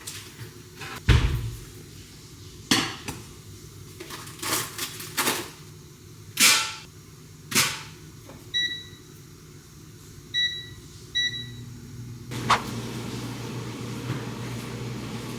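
Several sharp clicks and knocks with a dull thump about a second in, then three short electronic beeps like an appliance keypad. Near the end a steady low machine hum starts.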